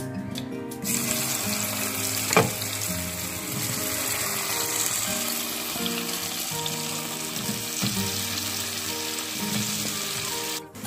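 Masala-coated potato cubes sizzling in hot oil in a nonstick pan while being stirred with a wooden spatula, with one sharp knock about two and a half seconds in. Background music with held melodic notes plays underneath.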